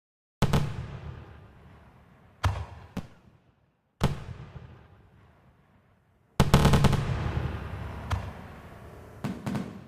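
Fireworks shells bursting overhead: a string of sharp booms, each trailing off in a long rolling echo, with a quick crackling cluster of reports about six and a half seconds in.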